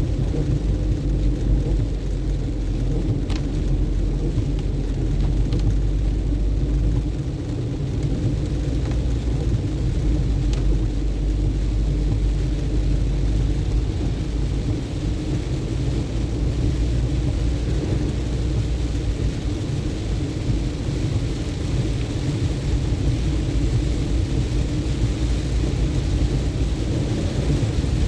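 Car driving through rain: a steady low road-and-engine rumble with the hiss of rain and wet tyres, and a few faint ticks.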